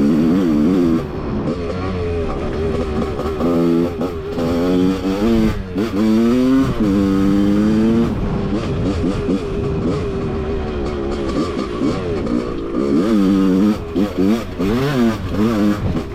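Suzuki RM250 two-stroke single-cylinder dirt bike engine under way, revving up and down as the throttle is opened and closed. Its pitch climbs and falls repeatedly, with quick runs of rising revs around the middle and again near the end.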